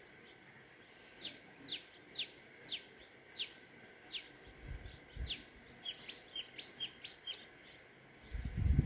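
A bird calls a series of about seven clear whistles, each falling sharply in pitch, about half a second apart, then a quicker run of short notes. A few low thuds near the end are the loudest sound.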